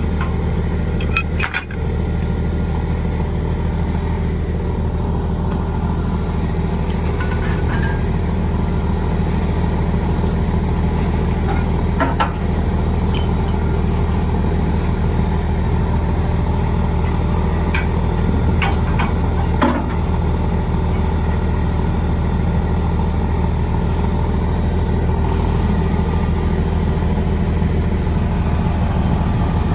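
Heavy diesel truck engine idling steadily, with a few short metallic clinks now and then.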